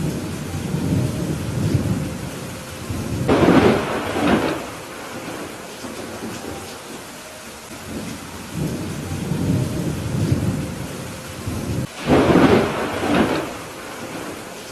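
Thunderstorm with steady rain: low rolls of thunder, and two louder, sharper peals, one about three seconds in and another about twelve seconds in.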